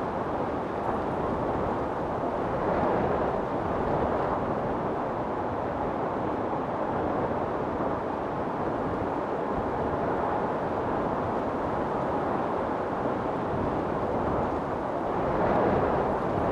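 Storm wind blowing steadily, swelling in gusts about three seconds in and again near the end.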